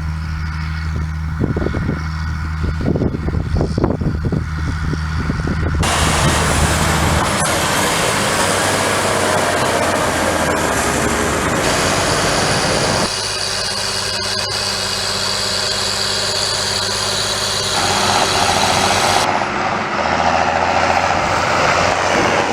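Large John Deere farm tractor diesel engines running, heard in several short clips cut one after another, so the engine note changes abruptly every few seconds. The first part is a steady low engine hum.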